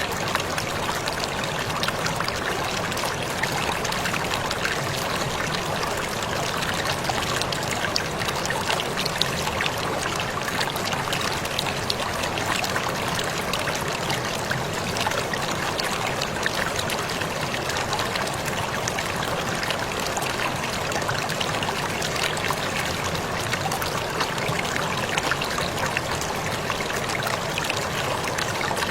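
Waterfall splashing steadily, with an even rushing and fine spattering of falling water.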